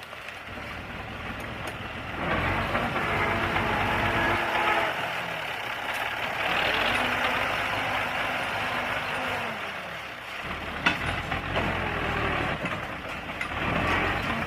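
Bulldozer's diesel engine working under load, its pitch rising and falling as it revs, with a sharp crack about eleven seconds in.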